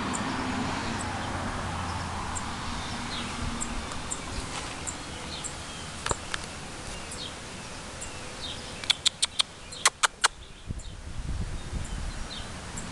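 A small bird chirping: faint high chirps scattered throughout, then a quick run of about seven sharp, loud chips about nine to ten seconds in. It is taken to be the mother bird calling near her nest of chicks.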